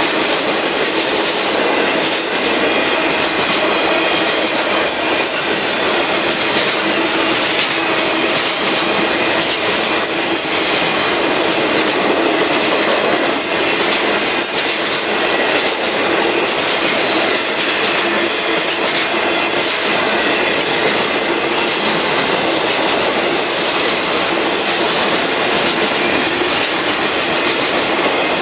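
Union Pacific freight train's boxcars rolling past: steady, loud noise of steel wheels running on the rails, unbroken throughout.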